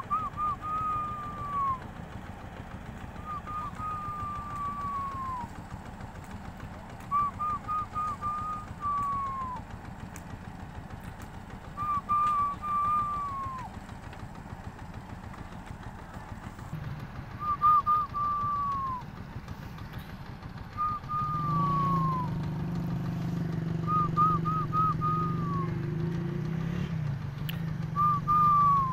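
A bird repeats a short call eight times, every three to five seconds: a few quick notes running into a falling whistle. Under it a low steady rumble, and about two-thirds of the way through a steady engine hum starts up and keeps going.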